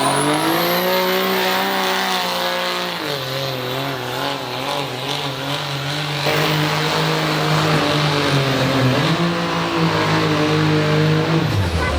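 A pulling truck's engine at full throttle under load as it drags a weight sled, with a high whistle rising in the first second. The engine pitch dips about 3 s in and again about 9 s in, then falls away as the throttle is lifted about 11.5 s in.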